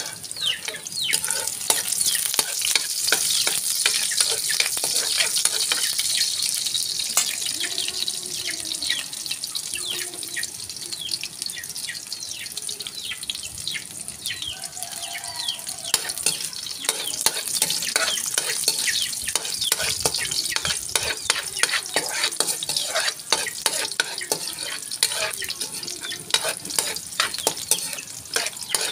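Sliced onion and garlic sizzling and crackling in hot oil in an aluminium wok, stirred with a metal spoon.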